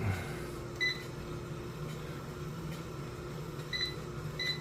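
Electronic console of a Life Fitness Lifecycle 9500 HR exercise bike beeping as its buttons are pressed: a single short beep about a second in, another near four seconds, then a quick run of beeps at about four a second near the end.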